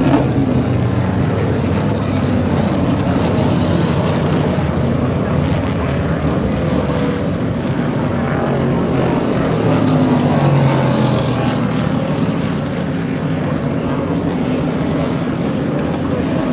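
A pack of 1966–1972 Trans Am V8 race cars rumbling along on the pace lap, a steady mix of engine notes whose pitches drift up and down as the cars go by.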